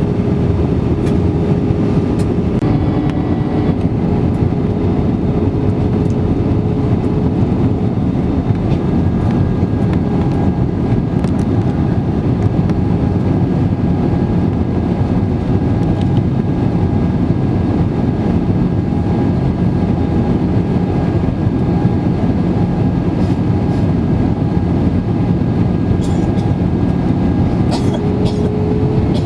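Steady rumble of an Airbus A320-200's engines and airflow heard inside the passenger cabin, with a faint hum that fades out several seconds in and comes back, rising slightly, near the end.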